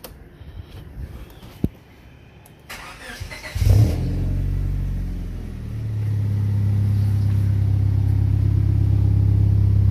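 Car engine cranked and catching about three and a half seconds in, with a brief surge as it fires, then idling steadily. The idle grows a little louder and holds from about six seconds in.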